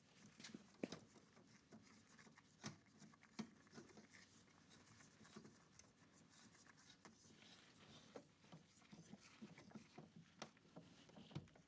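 Near silence with faint, scattered small clicks and ticks from hands handling things at close range.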